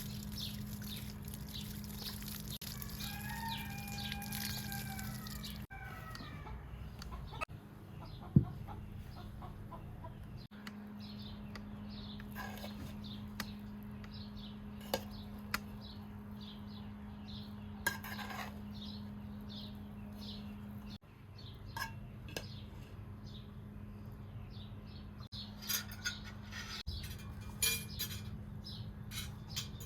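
A rooster crowing once, a few seconds in, over a steady low hum; later come scattered clicks and clinks of cooking utensils and dishes.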